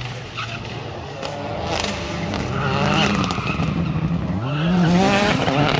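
Rally car engine running hard, its revs climbing sharply about four seconds in as it accelerates, over tyre and road noise.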